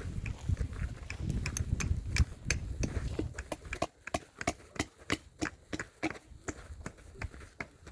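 Footsteps crunching on a loose gravel path at a steady walking pace, about three to four sharp steps a second. A low rumbling noise sits under the steps for the first half and drops away about four seconds in.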